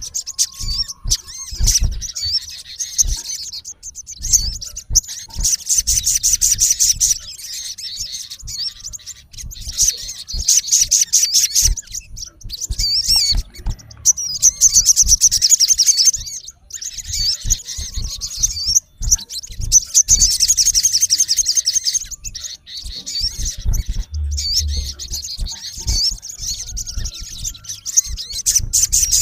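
Male olive-backed sunbird singing harshly at a rival: bursts of fast, high, rapidly repeated twittering notes lasting one to three seconds, with short pauses between them. Scattered low thumps run underneath.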